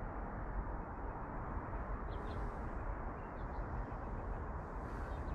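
A few faint, short bird chirps over a steady low rushing noise of open-air ambience.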